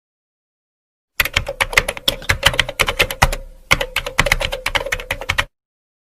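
Typing on a computer keyboard: a fast run of key clicks starting about a second in, with a short pause midway, cutting off after about four seconds.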